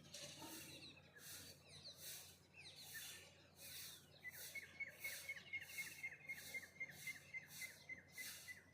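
Faint morning birdsong: scattered short chirps, then from about halfway through one bird repeats a rapid string of notes at a steady pitch, about four or five a second. A regular high hiss pulses behind it about one and a half times a second.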